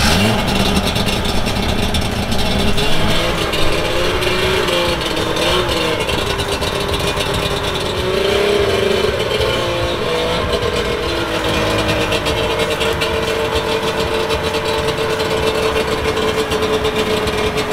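Suzuki Jimny SJ10's three-cylinder two-stroke engine running, its revs rising and falling repeatedly, then holding a steady pitch from about two-thirds of the way in.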